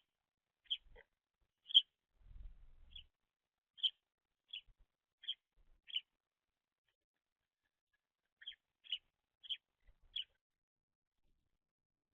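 A small songbird chirping: about a dozen short, high single chirps, a run of eight, a pause of a couple of seconds, then four more.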